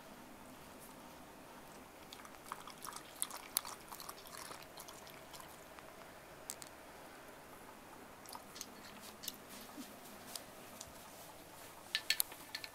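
A Shiba Inu chewing ice from its iced water, heard as irregular small clicks and crunches, with a burst of louder ones near the end.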